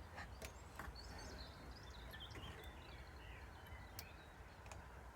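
Faint background of small birds chirping over a low steady hum, with a few light clicks.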